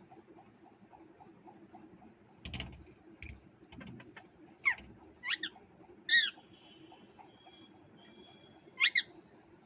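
Parrot giving short, sharp calls, some in quick pairs, about six in all, with a few dull thumps just before the first.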